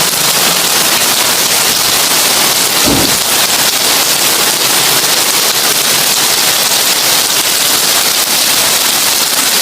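Heavy rain drumming steadily on a tin roof, a dense hiss of countless drop impacts, with a single short low thump about three seconds in.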